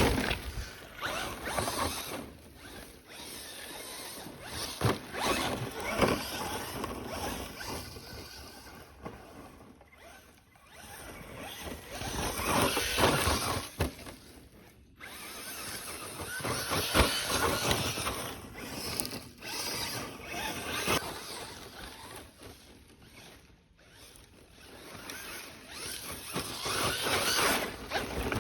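Traxxas Slash 4x4 Ultimate RC truck driven hard over forest ground: its electric drivetrain whirring and tyres scrabbling, with frequent knocks and clatters from bumps and landings. The sound swells and fades as the truck comes and goes, dropping away briefly a few times.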